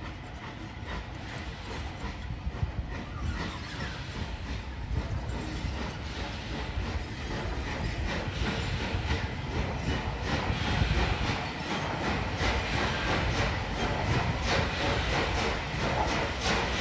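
Train drawing closer on the line, growing steadily louder: a low rumble with a run of regular sharp clatters building up over the second half.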